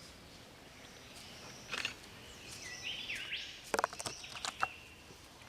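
Wild birds calling in a tropical rainforest: a few short, sharp calls and a run of whistled notes sliding up and down in pitch, over a faint steady background.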